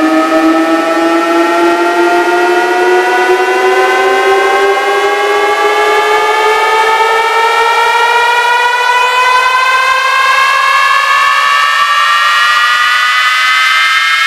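A loud electronic tone with many overtones, gliding slowly and steadily upward in pitch: a rising sweep from a speaker sound-check track.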